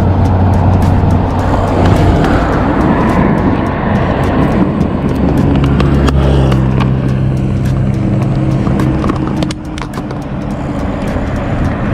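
Triumph Street Triple 675's inline-three engine running with the motorcycle under way, over a loud rush of wind noise. From about five seconds in, the engine holds a steady note, and the level dips briefly near the ten-second mark.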